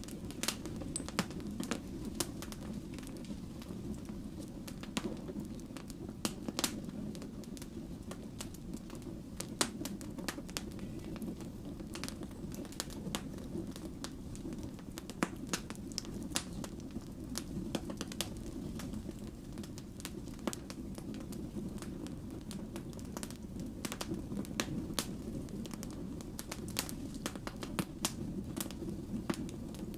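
Wood fire burning, a steady low rumble of flames with irregular sharp crackles and pops from the burning logs.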